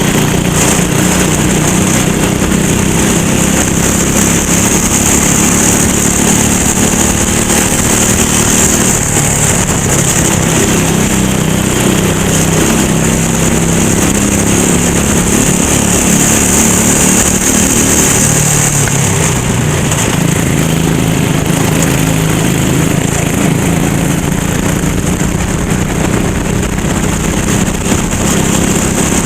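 Racing kart engine running hard during a race, its note rising and falling as the kart speeds up and slows.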